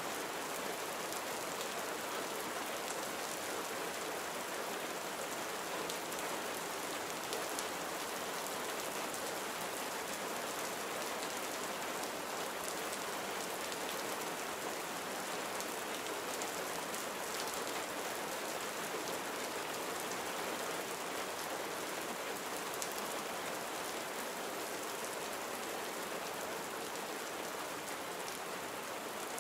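Steady gentle rain falling, an even hiss of many small drops pattering on a surface.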